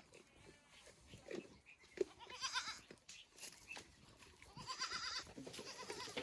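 Goats bleating: two quavering bleats, one about two and a half seconds in and another about five seconds in.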